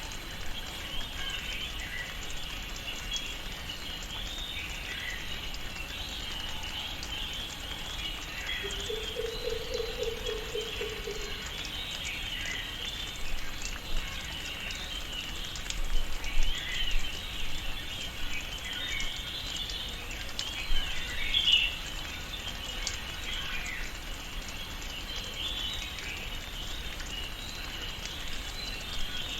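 Tropical rainforest ambience: a dense, continuous chorus of high chirping birds and insects. About a third of the way in, one low, rapid trilling call lasts about three seconds.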